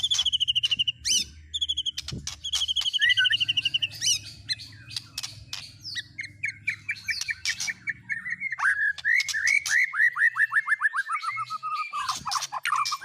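Songbird singing a fast, varied song: rapid trills and quick repeated notes, then a long run of quick notes that falls steadily in pitch over the second half.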